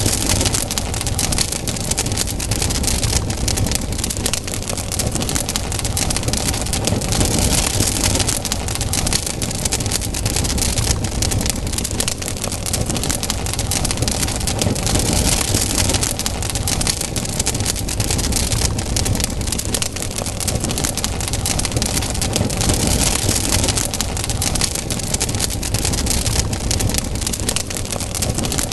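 Campfire burning, the wood crackling and popping continuously over a steady low rumble.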